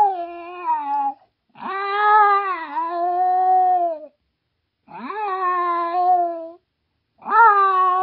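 Cat giving long, drawn-out meows, one after another with short pauses: the tail of one call, then three more, each sliding up at the start and wavering in pitch before it ends.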